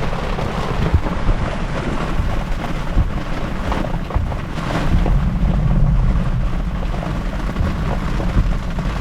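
Heavy rain beating on a car's roof and windshield, heard from inside the cabin as a steady dense wash of noise, strongest at the low end, with a few brief knocks.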